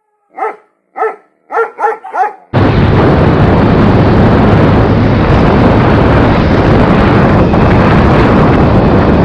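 A dog barks five times in quick succession. About two and a half seconds in, heavy wind noise on the action camera's microphone cuts in suddenly and stays loud: the rush of air over the camera on a motorcycle at top speed.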